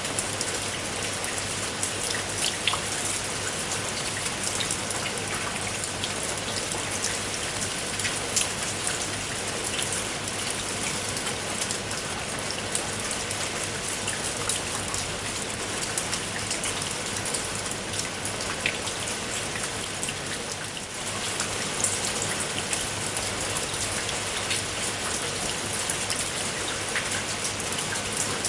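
Steady rain falling, with many separate drop impacts ticking through an even hiss. There is a brief slight lull about two-thirds of the way through.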